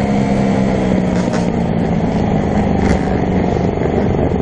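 Dirt bike engine running, its pitch slowly falling as it eases off, under heavy rumble from wind and riding noise.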